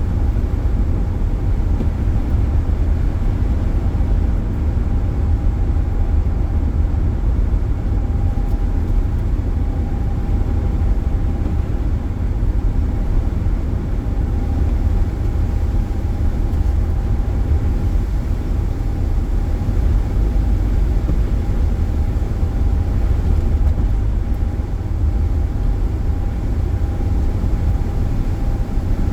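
Car driving at speed: steady low road and engine rumble heard inside the cabin, with a thin steady whine above it.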